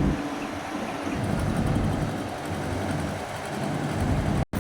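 Diesel engine of a Cat 320D excavator running steadily at a low, even speed, cutting off abruptly near the end.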